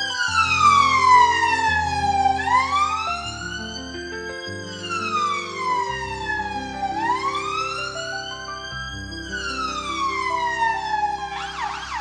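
Emergency vehicle siren in a slow wail, rising and falling about every five seconds, over background music. Near the end it switches to a fast yelp.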